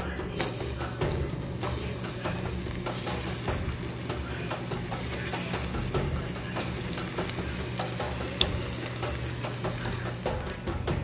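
Food sizzling as it fries in a pan, with the small clicks and scrapes of a utensil stirring it.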